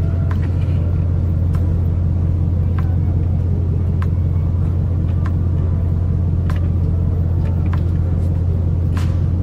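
Ford three-quarter-ton pickup idling, a steady low hum heard inside the cab, with light clicks about every second and a quarter.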